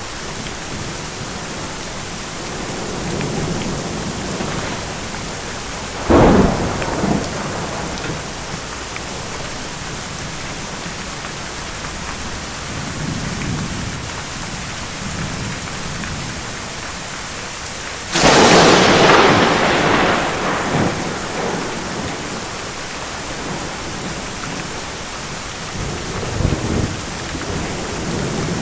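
Steady rain during a thunderstorm. A sharp thunderclap comes about six seconds in. A louder crack follows about two-thirds of the way through and rumbles off over a few seconds, with fainter rumbles of thunder in between.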